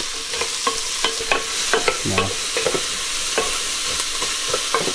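Chopped celery, onion and mushrooms sizzling in olive oil in an electric pot as they brown, with a steady sizzle. A wooden spatula stirs them and makes many small clicks and scrapes against the pot.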